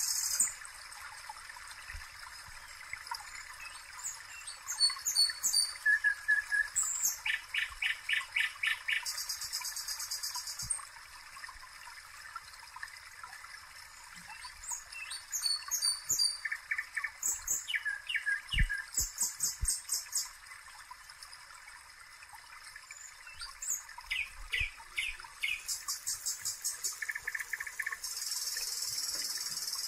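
Birds chirping and trilling in short repeated phrases throughout, over a steady sizzle of potato patties frying in oil.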